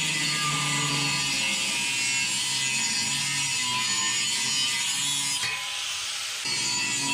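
Power tool cutting through steel exhaust pipe, a steady loud hiss over a wavering motor tone. It eases briefly about five and a half seconds in, then bites again.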